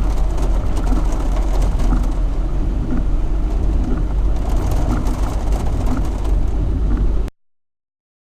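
Jeep Wrangler TJ driving slowly along a wet dirt track, a steady low engine rumble with tyre noise and small sharp rattles and ticks over it. The sound cuts off abruptly about seven seconds in.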